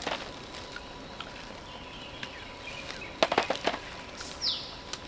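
Scattered sharp clicks and snaps, a few at the start and a quick cluster a little past three seconds in, over a steady background hiss, with one brief falling chirp near the end.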